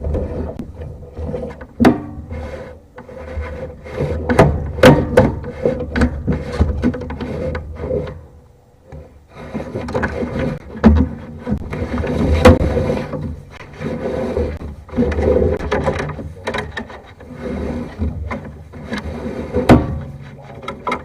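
Sewer inspection camera's push cable and camera head being worked through a drain line: irregular scraping and rubbing with many sharp knocks and clicks, and a faint steady hum under it.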